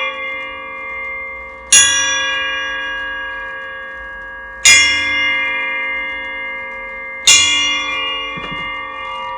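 A bell struck three times, about every three seconds, each strike ringing on at length with a clear metallic ring, the ring of an earlier strike still sounding at the start. It is rung four times as a signal to the squirrels that feeding is about to begin.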